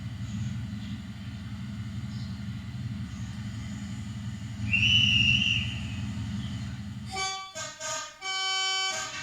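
Diesel engine of a full-size panoramic railcar running with a steady low rumble, a short high whistle about halfway through, then the railcar's horn sounding three times in quick succession near the end as it departs.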